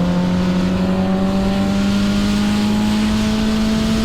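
2006 Suzuki GSX-R 750's inline-four engine pulling steadily in one gear, its pitch rising slowly as the bike gains speed.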